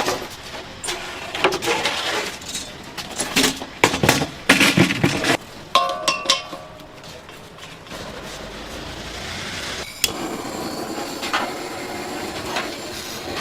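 A run of sharp knocks and metal clinks of cookware and utensils at a food stall, with one ringing metallic clink about six seconds in, then a steadier background hiss.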